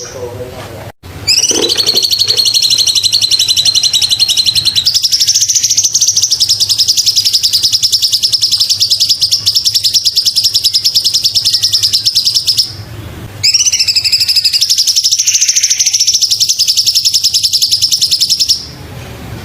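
Cucak cungkok singing: long, very rapid trilling phrases pitched high, stepping up and down in pitch, broken by a short pause in the middle and another near the end.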